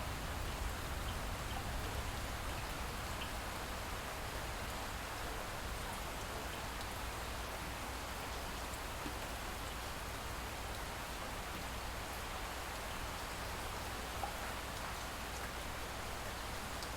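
Light rain falling steadily, with a few faint individual drop ticks.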